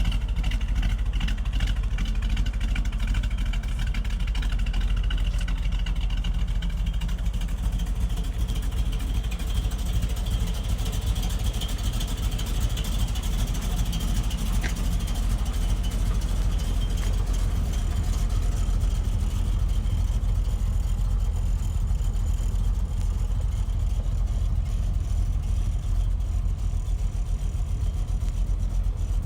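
1955 Chevrolet Bel Air's rebuilt 350 cubic-inch V8, fitted with headers and dual exhaust, running steadily.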